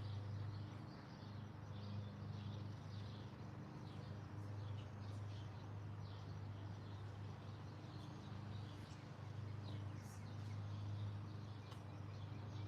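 Small birds chirping: many short, high chirps overlapping throughout, over a steady low hum.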